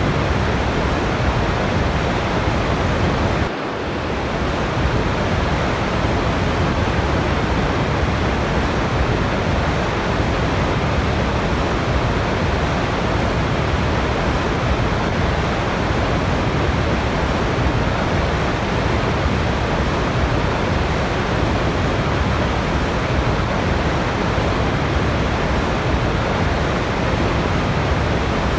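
Steady, even rush of falling water, like a waterfall, with no changes except a brief dip in level about three and a half seconds in, where the recording appears to be spliced.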